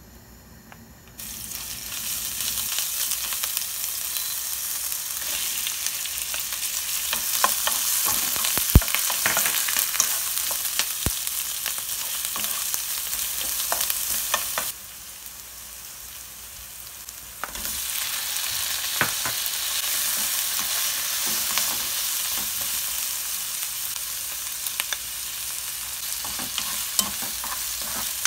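Garlic and green onion sizzling in hot oil in a nonstick frying pan, stirred with a wooden spatula that clicks and scrapes against the pan. The sizzle starts suddenly about a second in as the garlic goes into the oil, drops away for a few seconds about halfway, then comes back with tofu and chili peppers frying.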